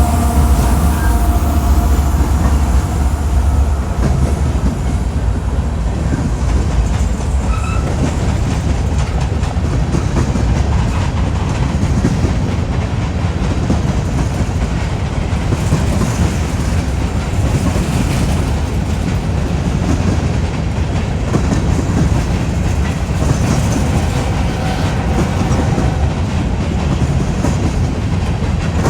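Freight train passing close by: a locomotive's diesel engine drone that fades over the first few seconds, then the steady rumble and clatter of railcars rolling over the rails.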